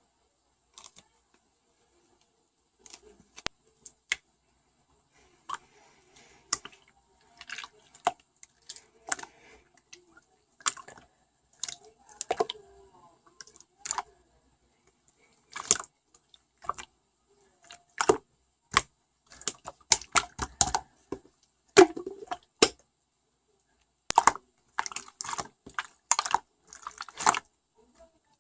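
A series of irregular sharp clicks and taps, some in quick clusters, with silence between them.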